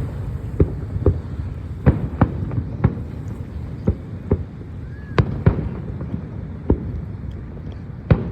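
Fireworks going off: about a dozen sharp bangs at irregular intervals, some close together, over a continuous low rumble.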